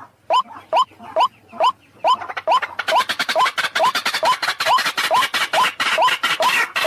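White-breasted waterhen calling: a fast run of short rising 'kru-ak' notes, about two to three a second. From about three seconds in a second bird joins, and the calls overlap into a denser, rougher chorus.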